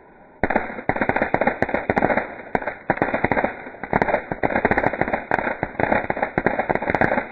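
Fireworks crackling: a dense, rapid string of small sharp cracks and pops that starts abruptly about half a second in and keeps going without let-up.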